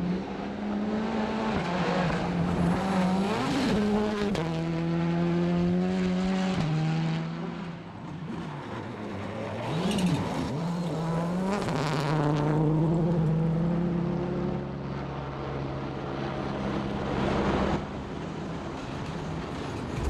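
A World Rally Car's turbocharged four-cylinder engine revving hard through the gears, its pitch climbing and then dropping at each shift. Tyre and road noise runs underneath, with brief tyre squeal.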